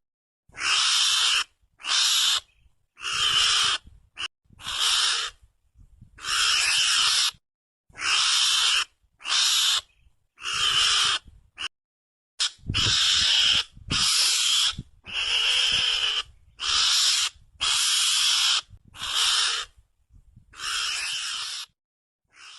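Mongoose (garangan) lure call: a string of about seventeen hissing, rasping calls, each half a second to a second long, repeated roughly once a second with short silences between.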